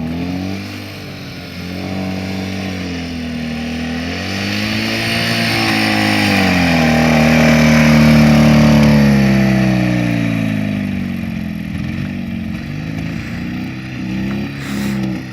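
Ural motorcycle's flat-twin engine revving up and down over and over, its pitch rising and falling about five times. It gets louder toward the middle and then eases off.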